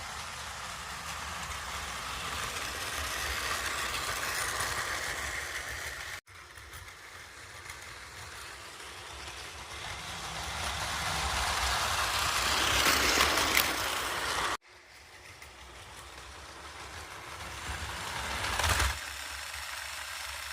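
Modified Plarail battery-powered toy trains running on plastic track: a steady motor whir with wheel rattle that grows louder as a train comes close and then fades, three times over, each pass cut off abruptly.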